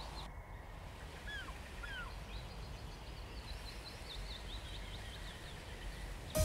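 Quiet outdoor ambience with a steady low rumble and small birds chirping: two short chirps about a second in, then a run of high chirps from about two and a half to five and a half seconds.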